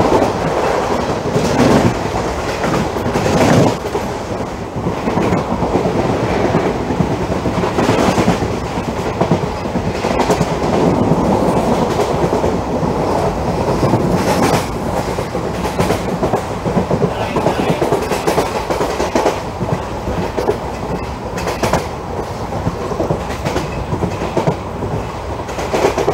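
Express train coach running at speed, heard from its open doorway: a steady rumble of wheels on rails with repeated sharp clacks as the wheels cross rail joints.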